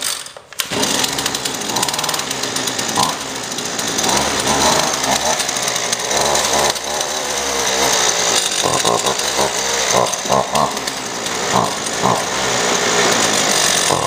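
Husqvarna 128 CD string trimmer's 28cc two-stroke engine on a cold start with the choke full: it catches about half a second in and keeps running, its pitch wavering.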